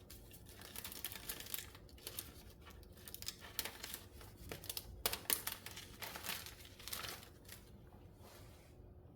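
Paper and plastic packaging being handled: irregular crinkling and rustling in bursts, dying away near the end.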